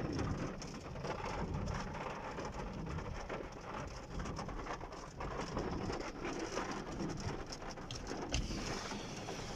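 Heavy rain hitting a car's roof and windows, heard from inside the car: a dense, steady patter of many separate drop impacts.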